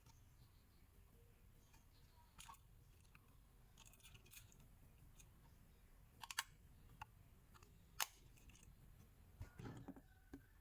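Scattered small clicks and crinkles from handling plastic packaging and toy parts, with two sharper clicks in the middle and a brief rustle near the end, over a near-silent background.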